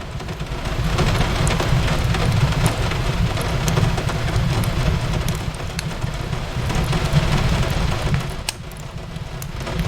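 Steady rain hiss with a low rumble, over which a wood fire crackles and pops in sharp, scattered clicks.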